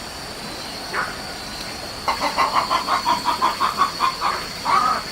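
A chicken clucking in a quick run of about a dozen clucks, ending in one louder, drawn-out call, after a couple of single clucks.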